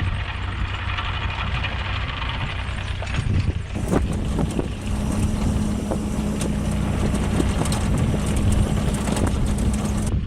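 Strong wind rumbling and buffeting on the microphone, with a steady low hum under it that gains a higher tone about halfway through.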